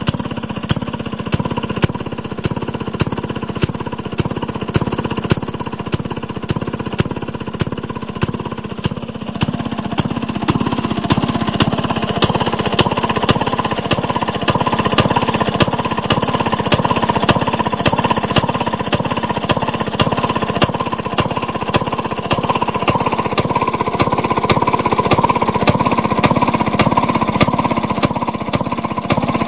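1928 Maytag Model 92 single-cylinder two-stroke washing-machine engine running steadily, firing in a rapid, even beat. It gets a little louder about ten seconds in.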